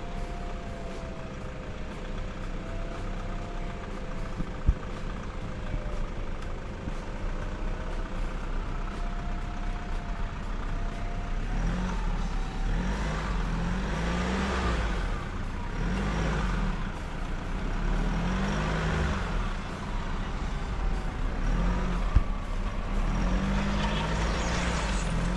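SsangYong 4x4's engine running steadily, then revving up and down in repeated surges from about halfway through as it pushes through viscous clay and bogs down.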